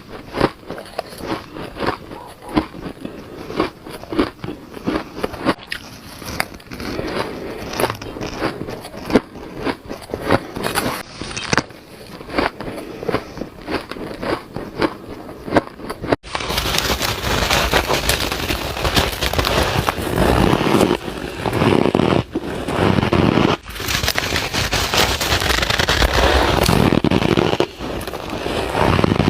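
Shaved ice being bitten and crunched close to the mouth: a run of quick, sharp crunches, then, from just past halfway, a louder and denser continuous crunching.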